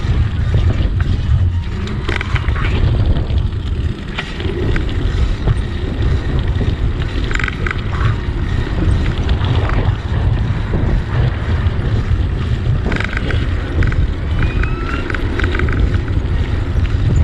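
Wind buffeting a GoPro microphone on a moving bicycle: a loud, steady low rumble, with a few brief higher chirps in the second half.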